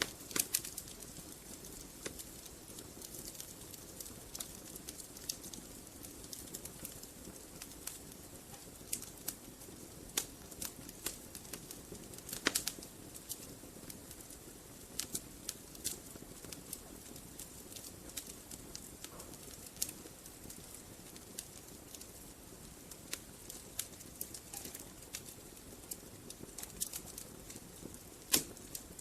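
Wood fire crackling in a fireplace: a steady soft hiss of burning logs with irregular sharp pops and snaps, a few much louder pops scattered through.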